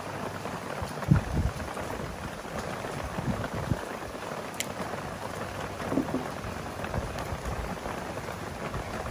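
Steady hiss of rain falling, with a few low thumps, the loudest about a second in.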